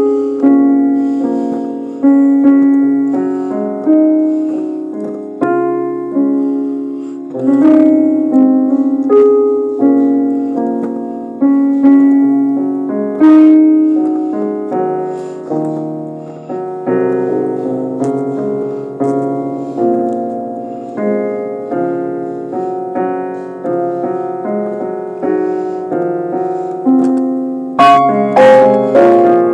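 Solo piano playing a slow piece, a melody over chords, each note struck and left to ring out. Fresh notes come about once a second, with a few sharper, louder chords near the end.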